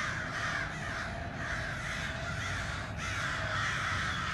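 A large flock of American crows cawing all at once, a dense overlapping din of many birds calling together with no pause.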